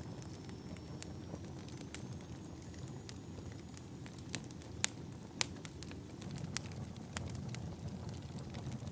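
Wood fire burning in a fireplace: a steady low rumble with sharp, irregular crackles and pops, several of them louder around the middle.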